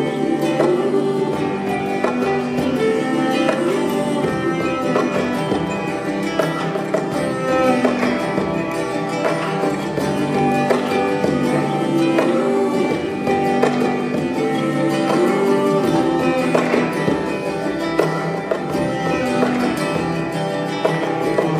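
Live acoustic band playing an instrumental break: plucked guitar lines over steady bass notes, with no lead vocal.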